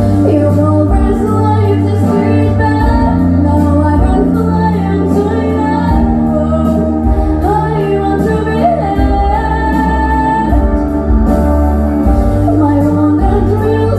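An 11-year-old girl singing over a recorded backing track with sustained bass and chord tones.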